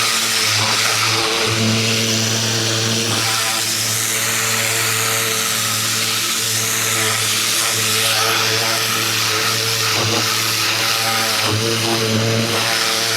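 Ryobi 2000 PSI electric pressure washer running, its motor and pump giving a steady hum under the loud, even hiss of the water jet spraying.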